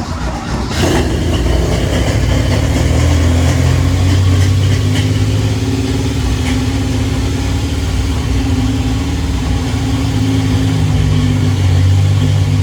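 A Jeep V6 (a Buick 225 Dauntless, pulled from a 1967 CJ-5) has just caught after cranking and runs steadily, on fuel poured in from a bottle. There is a brief louder flare about a second in.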